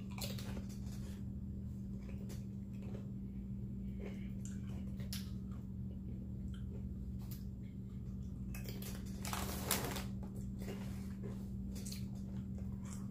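A person chewing food close to the microphone, with scattered crunches and a denser burst of chewing about nine seconds in, over a steady low hum.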